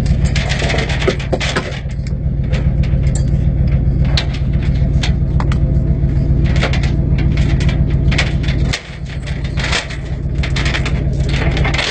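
Tow truck's engine idling with a steady low rumble, its exhaust loud from a muffler in need of repair, with a run of sharp metallic clicks and rattles over it.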